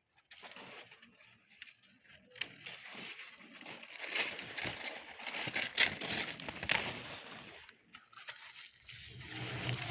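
Irregular rustling and crinkling, loudest in the middle, followed near the end by a low steady hum.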